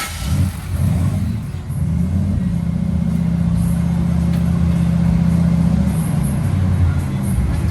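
2006 Dodge Charger R/T's 5.7-litre Hemi V8 revved through its exhaust: the engine climbs in the first couple of seconds, is held steady at raised revs for about four seconds, then eases back near the end.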